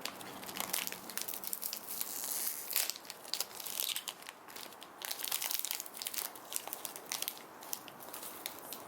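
Plastic snack wrapper crinkling and tearing as it is opened by hand: a dense, irregular run of sharp crackles.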